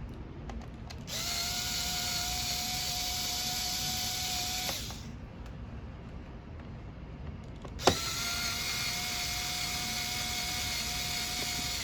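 Small electric screwdriver running in two steady whining spells of about four seconds each, the second starting with a sharp click about eight seconds in, backing out a laptop's bottom-panel screws.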